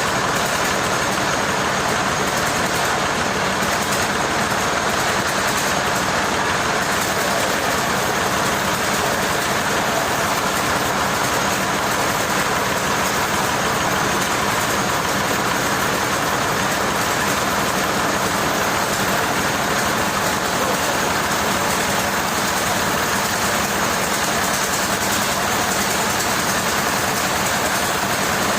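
Machine engine running steadily at an even level, with no changes in speed.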